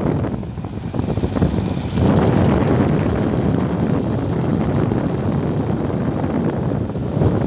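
Motorcycle running along the road, a steady noisy drone; it drops for a moment near the start and comes back louder at about two seconds.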